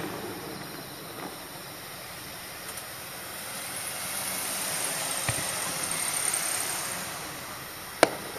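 Fireworks: a single aerial shell bursting with a sharp bang near the end. Before it there is a steady hiss that swells and fades, and a faint pop comes about five seconds in.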